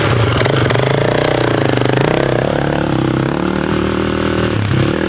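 Small off-road vehicle engine revving as the learner releases the clutch and pulls away under throttle. Its pitch rises and falls, with a brief dip in engine speed near the end.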